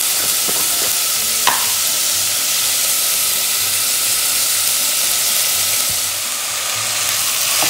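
Chopped red onion and green chilli sizzling steadily in hot vegetable oil, with a single light click about a second and a half in.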